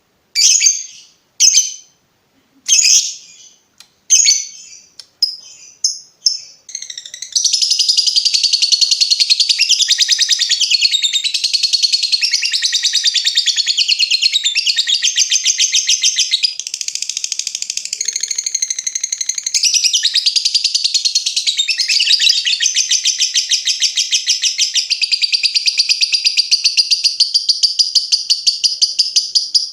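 Lovebird calling: a run of separate sharp high chirps, about one or two a second, then from about seven seconds in a long unbroken rapid chatter. This is the long 'ngekek' trill that lovebird keepers train their birds to copy.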